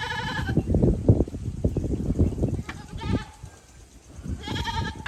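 Bleating from a flock of small livestock being herded back to their pen: three wavering bleats, one right at the start, one about three seconds in and one near the end, over low thuds and shuffling.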